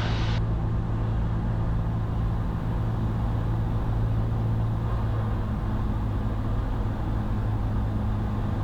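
Cessna 172's piston engine and propeller droning steadily in the cabin during a descending turn in the circuit.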